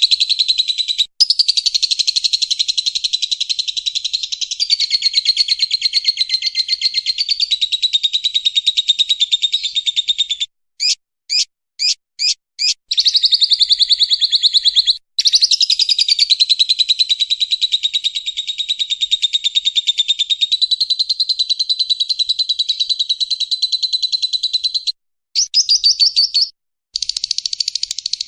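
Lovebird chattering ('ngekek') in long unbroken runs of rapid high notes, each run several seconds long. About halfway through, the chattering breaks for a few short separate chirps.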